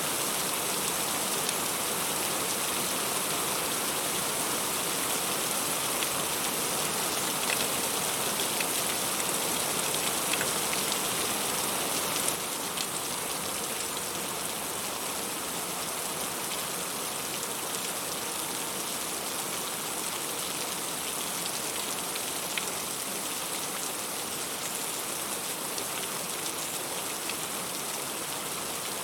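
Heavy rain falling steadily, a dense even hiss with individual drops ticking through it. It gets slightly softer about twelve seconds in.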